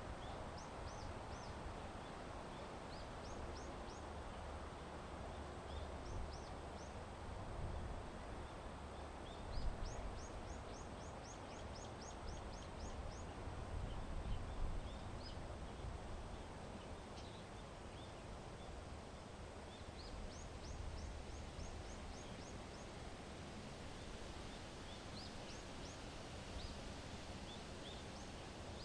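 Wind rumbling on the microphone, with louder gusts about a third and halfway through, while small birds chirp in quick runs of short, high notes.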